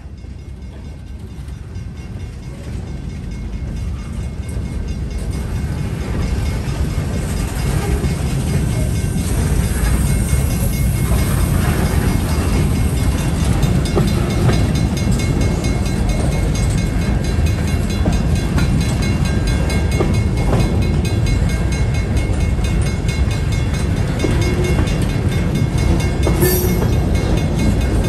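Norfolk Southern freight train's boxcars rolling past close by, a dense rumble and clatter of steel wheels on rail. It grows louder over the first several seconds, then holds steady, with a brief high squeal near the end.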